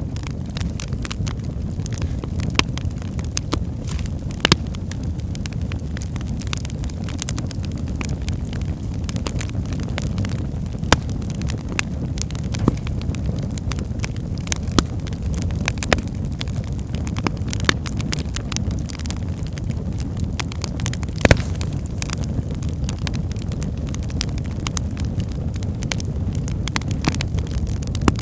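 Wood fire burning in a fireplace: a steady low rumble of flames with frequent irregular crackles and pops from the logs, one sharper pop about 21 seconds in.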